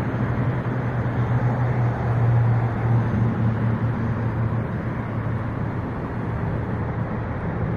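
Car engine idling: a steady low hum under an even wash of outdoor background noise.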